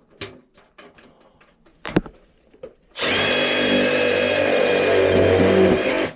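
Power drill running steadily for about three seconds, driving a screw into a joint of the water heater's exhaust vent pipe; it starts suddenly about three seconds in. Before it, a few light clicks and one sharp knock.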